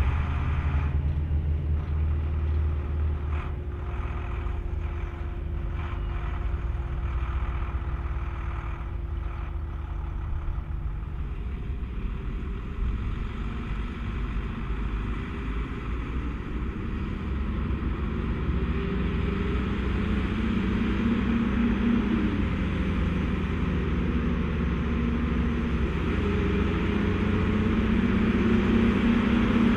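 Volvo BM 2654 tractor's diesel engine running steadily under the load of a five-furrow plough, growing louder over the second half.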